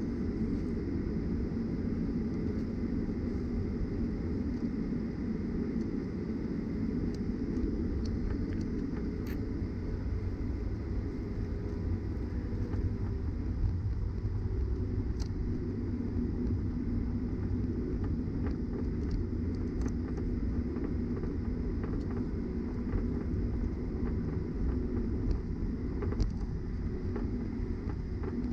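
Steady low rumble inside the cabin of a Boeing 737-900ER taxiing, its CFM56-7B engines at low taxi power, with a few faint scattered clicks and knocks.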